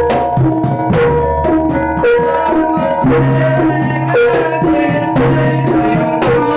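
Jaranan gamelan music: hand drums beat a steady, quick rhythm over ringing gong and metallophone tones with a deep low gong sound underneath.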